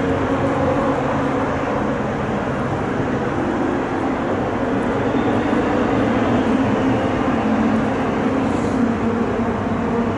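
Pre-1966 touring car racing engines running hard at speed, a loud steady engine drone with no break.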